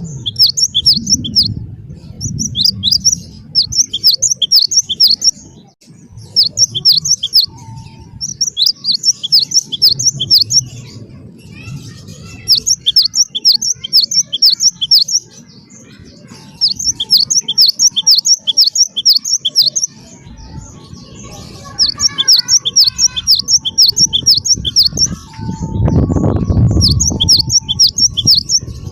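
Cinereous tit (gelatik batu) singing: fast runs of sharp, high down-slurred notes in bursts of one to two seconds with short pauses between. A low rumble sits underneath and grows louder for about a second near the end.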